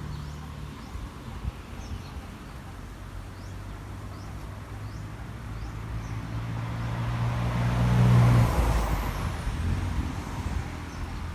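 A motor vehicle passing close by: its engine hum builds to the loudest point about eight seconds in, then drops in pitch and fades as it goes away.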